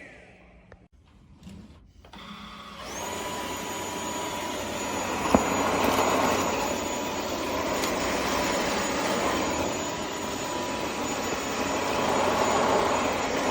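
Cordless stick vacuum's motor, quiet at first, is switched on about three seconds in. It spins up to a steady high whine and keeps running, with one sharp click partway through.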